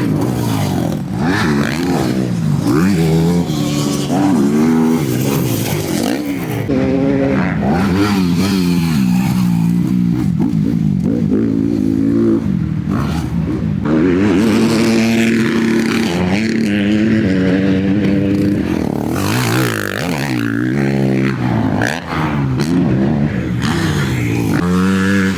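Motocross bike engine at full throttle round a dirt track, its pitch climbing through the gears and falling off again and again as the rider shuts off and gets back on the gas.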